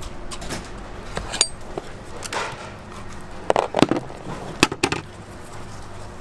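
Kitchen work clatter: scattered clicks and knocks of utensils and food handling, with a few sharper knocks in the middle.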